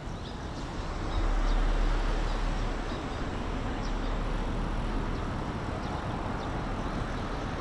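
Road traffic running steadily, swelling as a vehicle passes about a second in.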